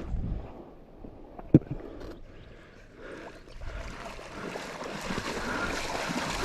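Water sloshing and splashing, with one sharp knock about a second and a half in.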